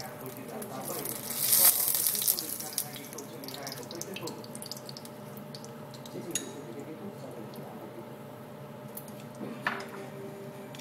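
Kitchen sounds as scallions are sprinkled over fried tofu with chopsticks: a few sharp clicks of the chopsticks against the bowl and plate over a steady low hiss. A louder hiss rises about a second and a half in and fades within about a second.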